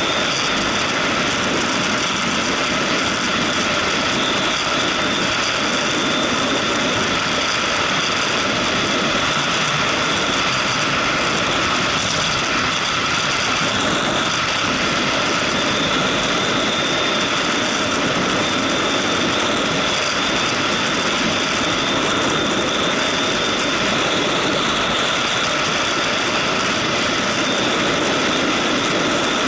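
Motorcycle running steadily on the move, its engine sound blended with a loud, even road and rushing-air noise that holds unchanged throughout.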